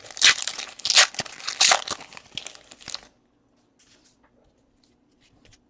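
Crinkling and tearing of a trading-card pack wrapper being handled and torn open, a dense run of crackles for about three seconds, then it stops.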